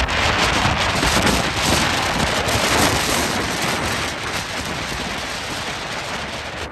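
Hurricane wind buffeting the microphone with driving rain, a dense rushing noise that gradually eases toward the end.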